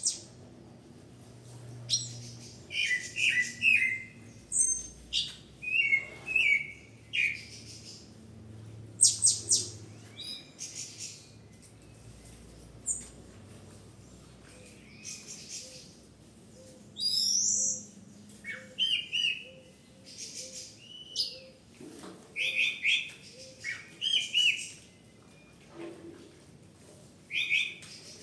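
Bird chirping: short, sharp high calls and quick chirp phrases, repeated at irregular intervals with brief pauses between them.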